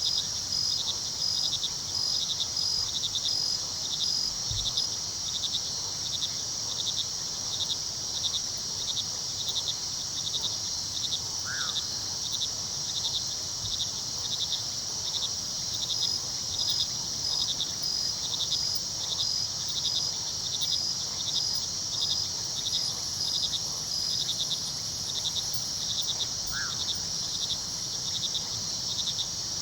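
Crickets chirping at night, a steady, even pulsing over a constant high insect trill, with a low rush of river water underneath. Two short single calls stand out, about a third and nine-tenths of the way through.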